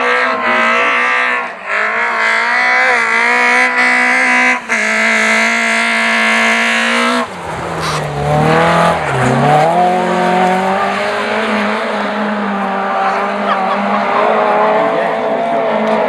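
Rally car engine held at high revs, dropping out briefly twice. From about halfway it runs at lower revs, dips about nine seconds in, then climbs again.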